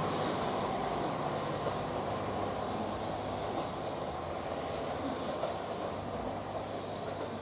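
Train pulling out and moving away, its running noise a steady rumble and hum that slowly fades.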